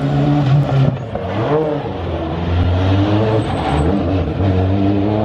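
Rally car engine accelerating hard, its pitch climbing and dropping back at gear changes.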